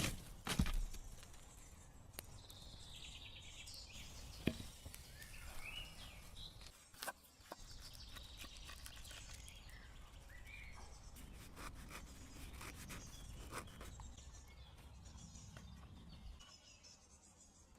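Faint woodland ambience with scattered bird chirps and calls, broken by a few sharp knocks, the loudest about half a second in and another near four and a half seconds.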